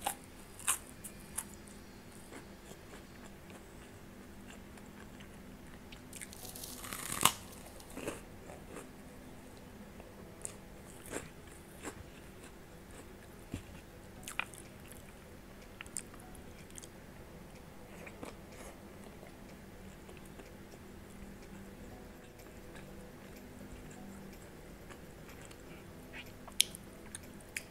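Close-up eating sounds: a mouth chewing rice with fried anchovies and peanuts, with scattered small clicks and crunches. The loudest crunch comes about seven seconds in.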